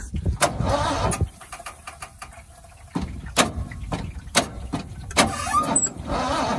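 The overheated, oil-starved 351M V8 of a 1979 Ford F-250 being cranked over, turning unevenly with knocks and not catching, in two tries with a short pause between them; the pistons are struggling to move in the cooked engine.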